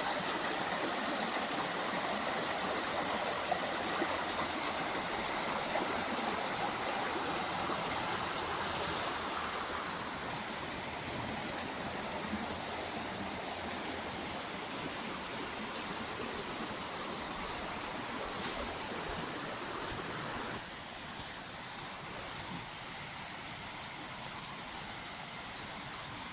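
Steady rushing water. It drops a little about ten seconds in and abruptly about twenty seconds in, after which faint high chirps come and go.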